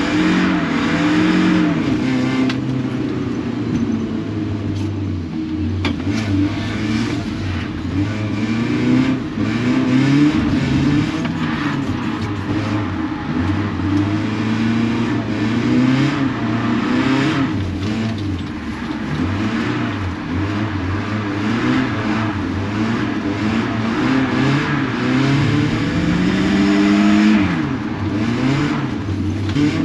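BMW 318ti's four-cylinder engine being driven hard, revving up and easing off over and over, its pitch climbing and dropping every few seconds.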